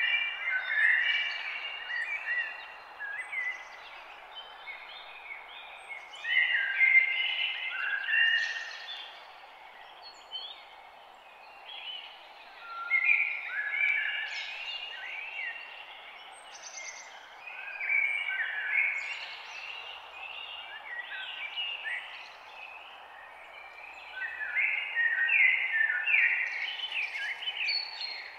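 Several songbirds singing and chirping in bouts of rapid phrases every few seconds, over a steady low hiss of background noise.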